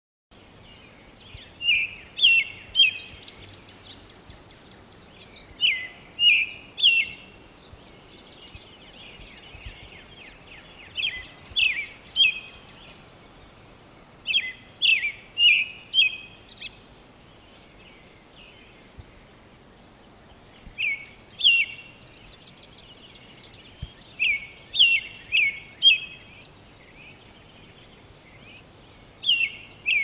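American robin calling: short bursts of two to four sharp, descending notes, repeated every few seconds, over fainter calls of other birds.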